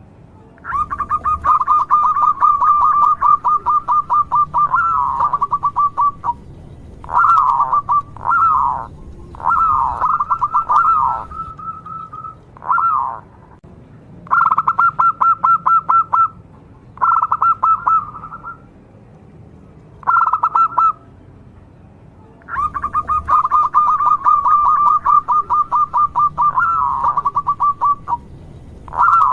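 Zebra dove (local Javanese perkutut) cooing: a long run of rapid, even notes near the start, a string of short phrases of a few notes in the middle, and another long run about three-quarters of the way through.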